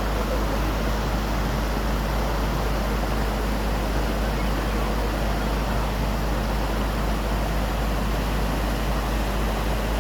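Waterfall: a steady, even rush of falling water that holds at the same level throughout.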